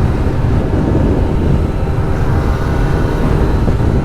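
Motorcycles and a scooter riding at speed in a group, a steady loud engine drone under a heavy low rumble at the microphone, which a rider calls really loud.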